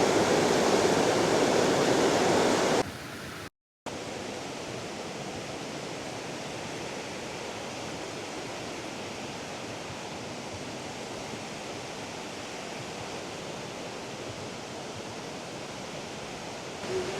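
Fast-flowing mountain river rushing in a steady loud roar of water; a little under 3 s in it cuts off abruptly, drops out for a moment, and a quieter steady rush of water carries on.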